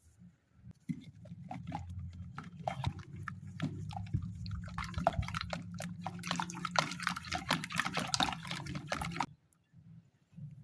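Eggs being beaten in a bowl: quick, irregular wet clicks and splashes of the utensil through the liquid egg, growing busier after about six seconds and stopping abruptly about nine seconds in, over a steady low hum.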